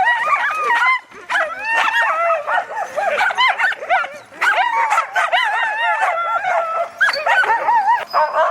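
A chorus of sled dogs yipping, whining and howling over one another without a break, excited at feeding time.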